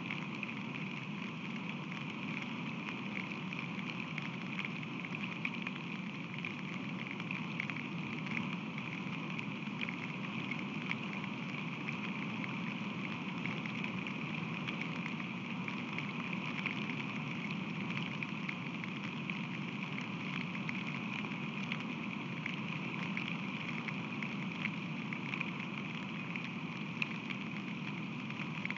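Steady rain falling: a constant fine patter of drops over an even hiss, with a low steady rumble underneath.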